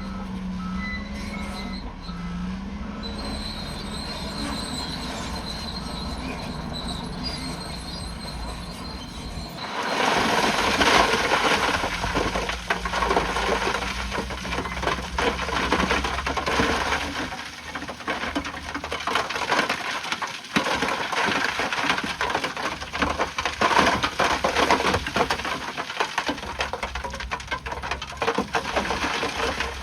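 Heavy earthmoving machinery working, with a steady engine hum and a reversing alarm beeping at first. About ten seconds in, a loud, continuous crackling and scraping takes over, typical of rock and earth being pushed or crushed.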